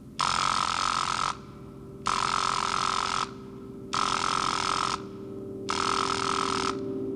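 Electric alarm ringing in four bursts of about a second each, with short gaps between them. It sounds over a steady low tone that swells toward the end.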